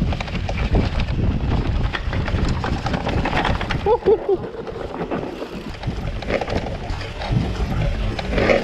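Focus Jam2 electric mountain bike ridden over rough trail: a steady rush of wind and tyre noise with many clicks and knocks of the bike rattling. A short pitched sound comes about four seconds in.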